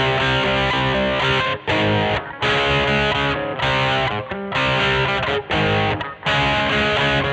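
Squier Vintage Modified Jaguar electric guitar played with heavy distortion: chords in short rhythmic blocks with brief stops between them.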